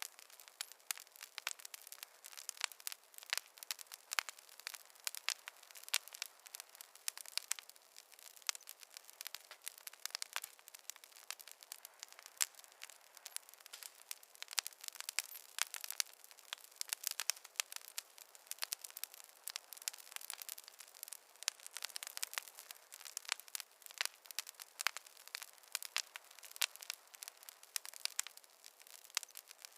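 Fireplace fire crackling: a dense, irregular run of small pops and snaps over a soft hiss.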